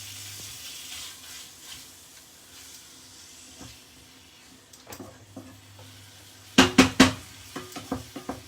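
Chicken breast frying in a pan with a soft, steady sizzle. About six and a half seconds in, a utensil knocks sharply against the pan three times, followed by a few lighter taps.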